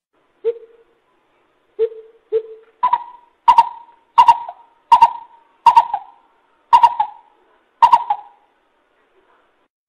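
Coucal (bubut) calling: three separate low hoots, then a run of seven louder, higher hoots that come further apart toward the end.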